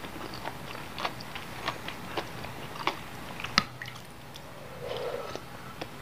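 Close-up chewing of food with wet mouth clicks, a sharp click every half second or so, the loudest about three and a half seconds in. A soft breathy sound follows about five seconds in.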